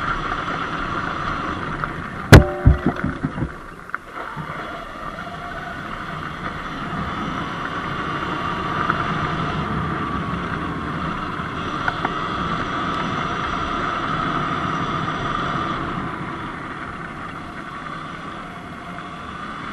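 Steady wind and riding noise on a moving Sur-Ron X Light Bee electric dirt bike on a dirt road. A loud sharp knock about two seconds in, followed by a few smaller rattles.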